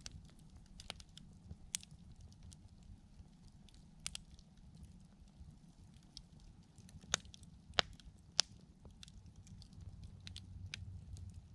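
Wood campfire crackling: irregular small pops and snaps over the low, steady rumble of the flames, with three sharper pops in quick succession a little past halfway.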